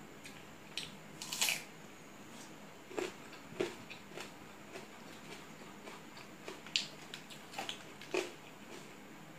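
Eating sounds from a person eating rice and curry by hand: chewing and mouth clicks and smacks, irregular and short, with a louder burst about one and a half seconds in.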